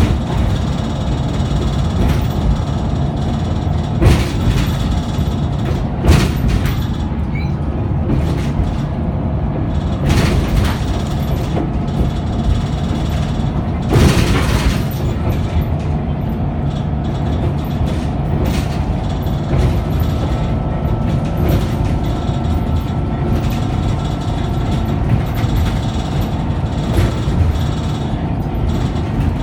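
Onboard sound of a Scania K94UB double-decker bus under way: a steady diesel engine drone and driveline whine. Occasional knocks and rattles from the body are loudest about 4, 6 and 14 seconds in.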